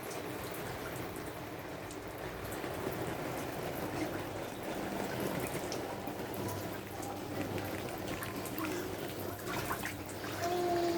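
Steady rain falling, an even hiss of water throughout, with a few light drip-like taps near the end.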